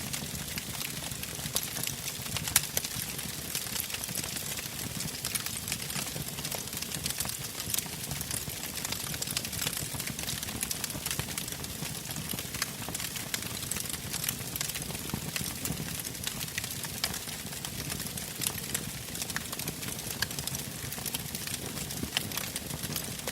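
Wood campfire burning and crackling, with frequent small pops over a steady hiss of the flames and one louder pop about two and a half seconds in.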